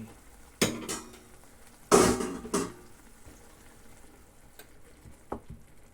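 Cooking utensil knocking against a frying pan as onion and spinach are stirred: a sharp clatter about half a second in, a louder double clatter about two seconds in, then a few light clicks.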